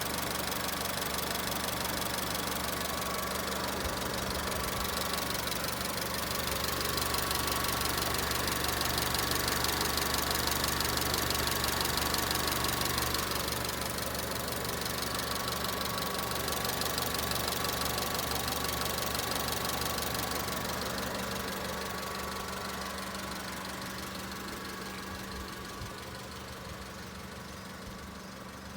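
2004 Honda Civic's four-cylinder engine idling steadily while its cooling system is being burped of air. A rushing noise over the idle grows louder in the middle and slowly fades near the end.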